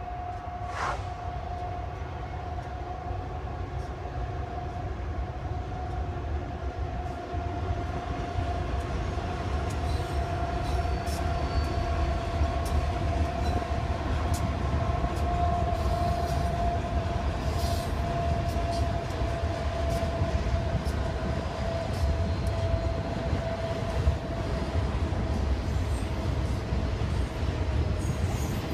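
BNSF double-stack intermodal freight train passing over an elevated flyover: a steady low rumble that grows louder, with a sustained whine and scattered sharp ticks from the wheels and rails.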